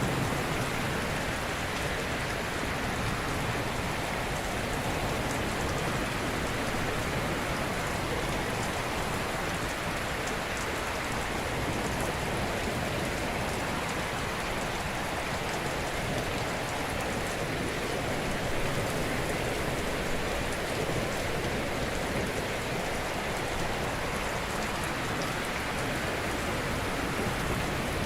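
Ocean surf: a continuous, even wash of waves breaking gently, with no single crash standing out.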